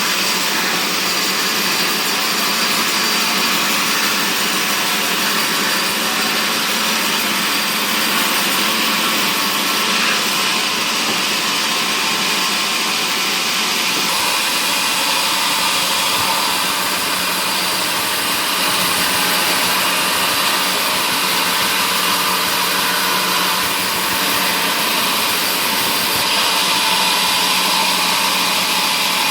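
Woodworking machinery for cutting mahogany running continuously, a loud, even whirring hiss that shifts slightly in tone a few times.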